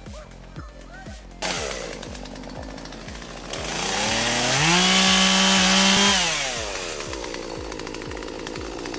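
Chainsaw running, coming in about a second and a half in, then revving up to full throttle about four seconds in, held for under two seconds and dropping back, over background music with a steady beat.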